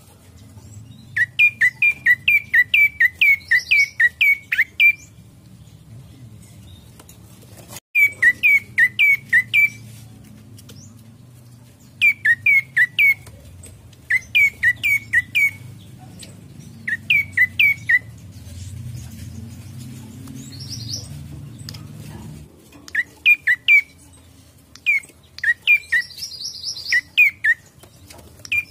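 Prenjak coki calling: bursts of sharp, quickly repeated chirps, about three a second, each note hooking down in pitch. The bursts run three to eleven notes long with pauses of a second or more between them, over a steady low hum.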